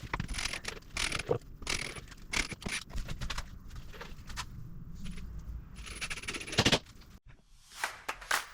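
Irregular clicks, clinks and short scrapes of hard objects being handled, with a louder scrape about six and a half seconds in.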